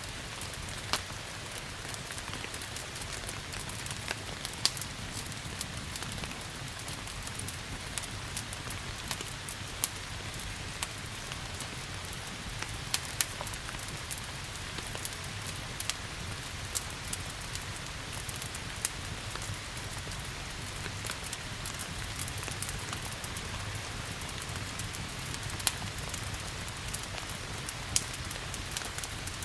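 Steady rain with the irregular sharp pops and crackles of a log fire scattered through it.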